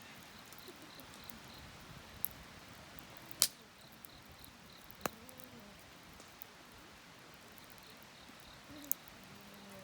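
Wood fire crackling: a few sharp, separate pops over a quiet background, the loudest about three and a half seconds in.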